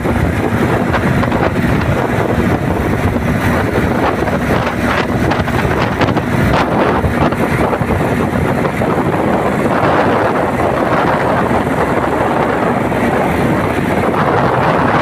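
Wind buffeting the microphone: a loud, rumbling, fluctuating rush of noise with no distinct pitched sound.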